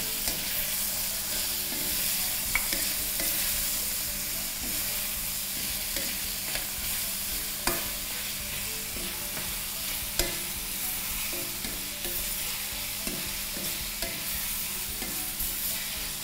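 Diced carrots sizzling in oil in a stainless steel wok, stirred with a wooden spatula. The frying hiss is steady, with a few sharp knocks of the spatula against the pan; the loudest come near eight and ten seconds in.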